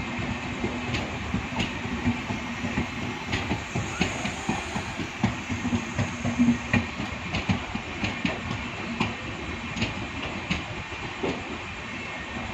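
Passenger train coaches rolling slowly along the track, with a steady rumble and irregular wheel clacks and knocks over the rail joints.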